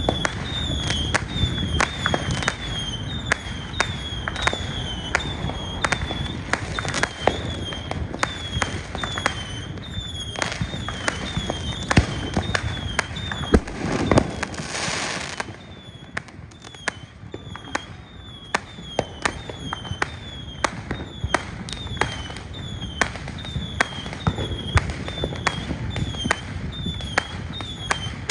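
Fireworks going off in a continuous barrage of sharp bangs, several a second, with a short falling whistle repeating about twice a second. A brief hiss comes about halfway through, and the barrage is a little quieter after it.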